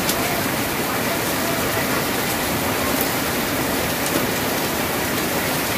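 Steady rain falling on a tin roof, an even hiss with a few faint single drop ticks.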